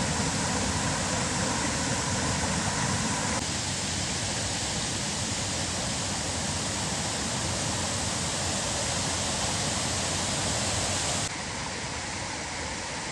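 Steady rushing of a waterfall, a dense even roar of falling water that changes abruptly in level twice, dropping near the end.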